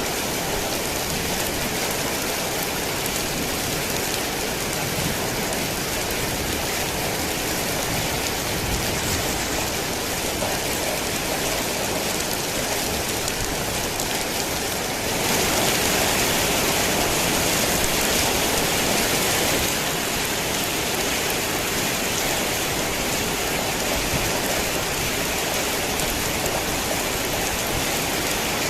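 Rain falling steadily, an even hiss of drops on surfaces. It gets louder for about five seconds midway, then settles back.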